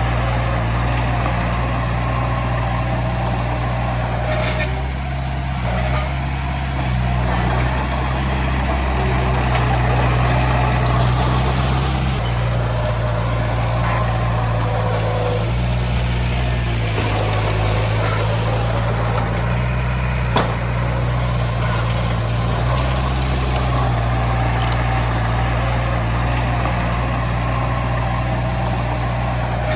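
Diesel engine of heavy earthmoving machinery running under working load, its pitch shifting up and down as the load changes. A single sharp knock comes about two-thirds of the way through.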